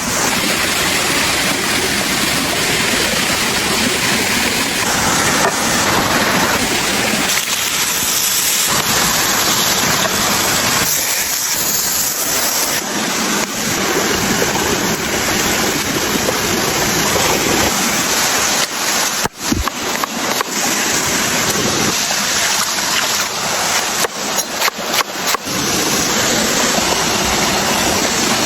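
A steady, loud rushing noise like running water, broken by a few sudden short drops about two-thirds of the way through.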